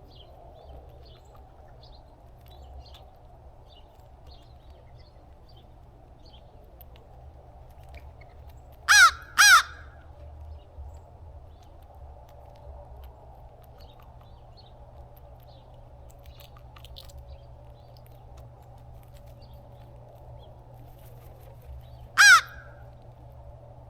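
Crow cawing: two quick caws about nine seconds in and a single caw near the end, over a steady low background hum.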